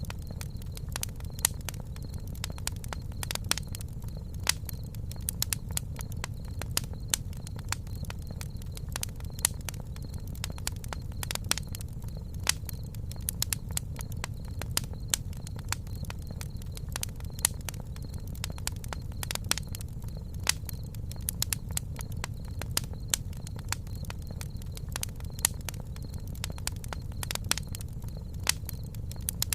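Campfire burning, with wood crackling in frequent, irregular sharp pops and snaps over a low steady rumble.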